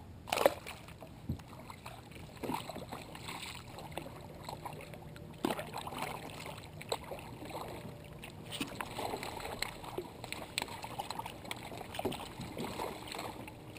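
Small splashes and knocks on and around a kayak on open water, with scattered clicks of handling and a sharp knock or splash about half a second in.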